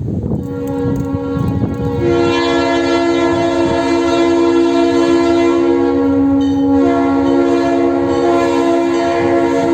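Train air horn sounding a long, steady blast. One note starts about half a second in, and a second, higher note joins about two seconds in to make a chord.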